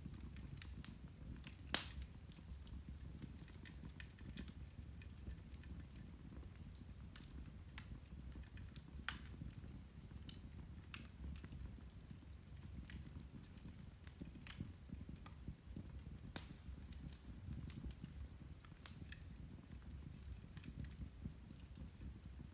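Irish turf (peat) fire crackling: irregular sharp pops and snaps over a low steady rumble, with two louder pops, one about two seconds in and one about sixteen seconds in.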